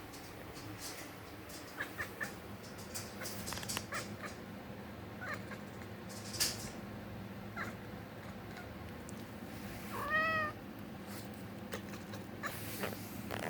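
Kitten chirping and chattering at birds in short, scattered bursts, with one longer arched meow about ten seconds in.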